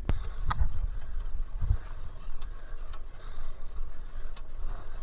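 Wind buffeting the microphone during a bicycle ride, a low uneven rumble, with scattered clicks and knocks from the bike rattling over the road.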